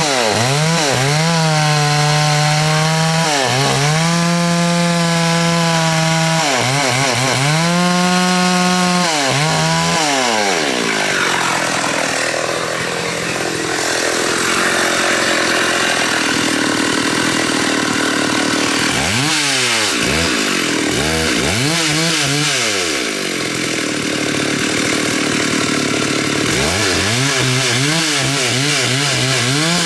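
Two-stroke chainsaw revving up and down several times. It then cuts into the wood of a big xà cừ (African mahogany) tree, its pitch dropping and the sound turning rough under the load, twice. It is back at full revs near the end.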